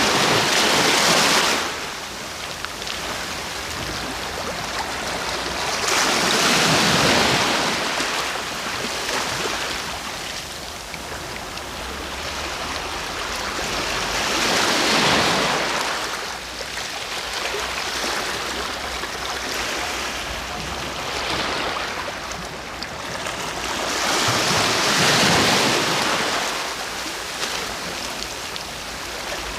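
Sea waves, with the surf swelling and fading in four surges several seconds apart and a steady wash in between.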